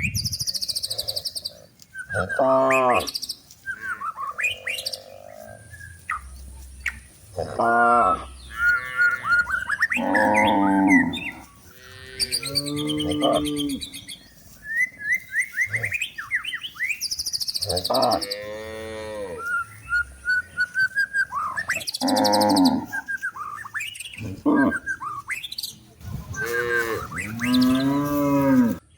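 Cows mooing again and again, a call every few seconds, with small birds chirping in between.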